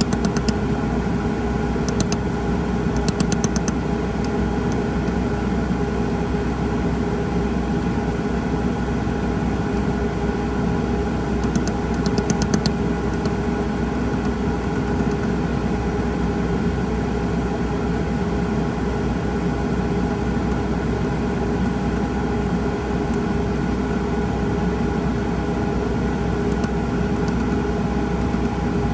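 Benchtop jewelry laser welder firing short pulses, heard as sharp ticks in small clusters every few seconds, over a steady machine hum with several fixed tones.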